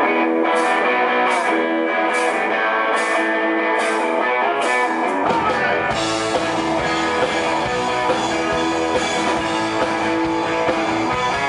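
Live rock band playing a song's instrumental intro: guitar alone at first, then the rest of the band with bass and drums comes in about five seconds in.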